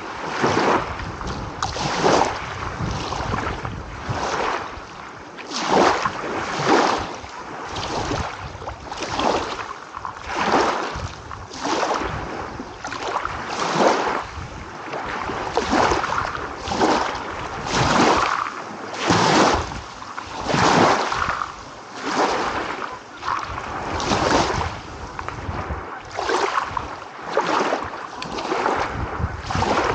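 Small waves lapping in a quick, uneven rhythm: a swell of water noise roughly every second or so, over a steady low rumble.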